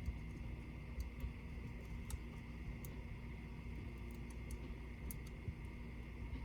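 Irregular light clicks and ticks of small tools and parts being handled on a laptop being taken apart, about a dozen at uneven spacing, over a steady faint hum.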